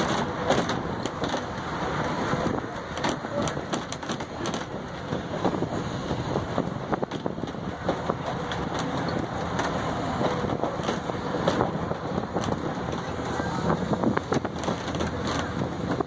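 Passenger coach of a heritage train rolling along the track: a steady rumble of wheels on rails with many irregular clicks and rattles.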